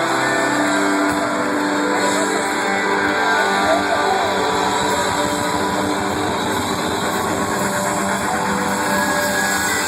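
Loud live rock band with heavily distorted electric guitars holding sustained chords, a steady wall of sound.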